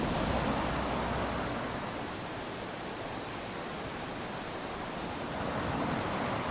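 Small waves lapping onto a sandy beach: a continuous wash of surf that swells right at the start and again near the end.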